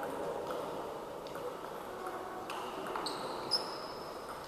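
Table tennis ball clicking sharply against the table and bats several times at uneven intervals, some hits ringing briefly at a high pitch, the sharpest about three and a half seconds in, over the steady murmur of a sports hall.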